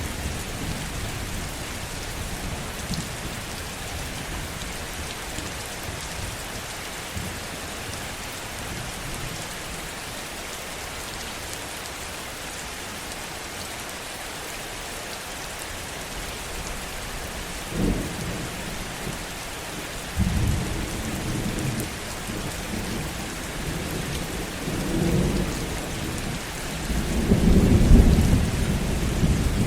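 Heavy rain falling steadily, with thunder: a short sharp clap about eighteen seconds in, then low rumbles from about twenty seconds that build to the loudest, longest roll of thunder near the end.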